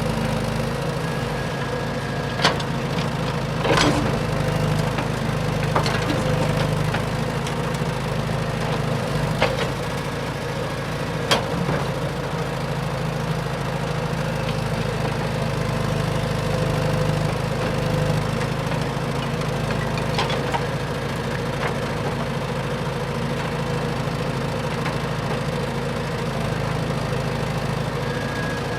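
Radio-controlled dump truck running with a steady engine-like drone, broken by several short sharp clicks or knocks.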